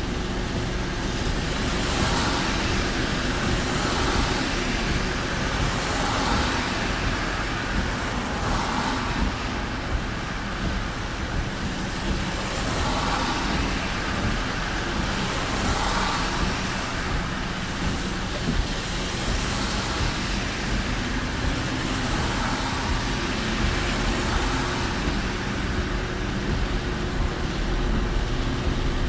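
Steady road and rain noise heard from inside a moving car in typhoon rain and wind. A hissing swell recurs about every two to three seconds over a low steady hum.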